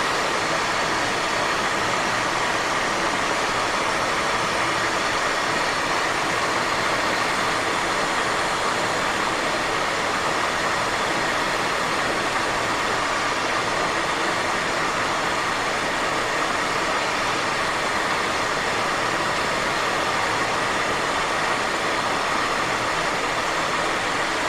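Steady cockpit noise of a Cessna Citation XLS business jet on final approach: airflow and turbofan engine noise, even and unchanging.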